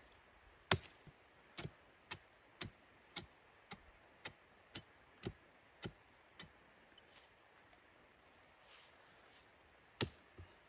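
A steady series of sharp knocks, about two a second, eleven in all, the first the loudest, then a pause and one more loud knock near the end.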